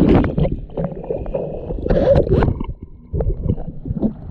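Lake water sloshing and gurgling in irregular, uneven splashes, as after a towed tube has gone under.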